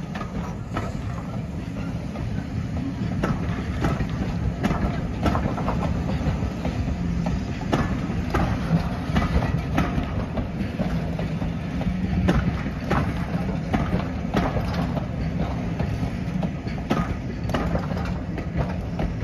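Railway passenger coaches rolling past, their wheels clicking repeatedly over the rail joints above a steady rumble.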